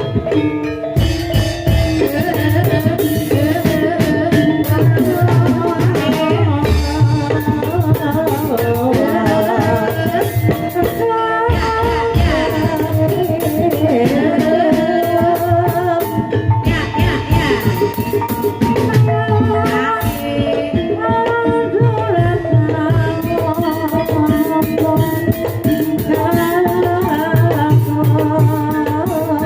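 Javanese gamelan playing ebeg (kuda kepang) accompaniment: kendang hand drums beating under ringing metallophone and gong-chime tones, with a sung melody gliding over them.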